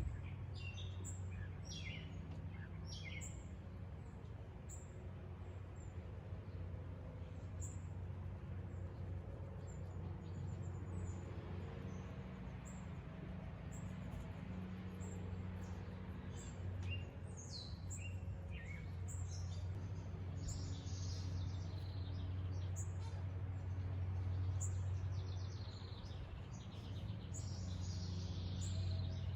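Wild birds chirping and singing in short high calls, coming thicker in the last third, over a steady low hum.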